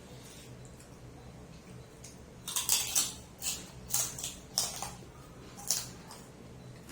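Crunchy eating sounds: five or six short, sharp crunches of food being bitten and chewed, starting about two and a half seconds in, over a steady low hum.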